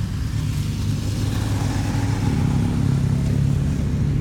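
Motor vehicle engine running steadily, its pitch rising slightly through the middle.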